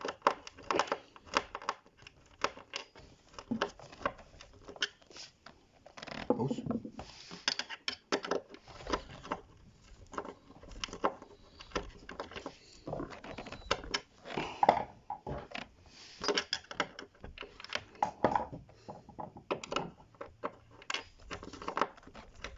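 Irregular small clicks and knocks of hand-assembly work on a wardrobe panel: a screw being driven by hand to fix a small clip, with tools and fittings tapping against the board.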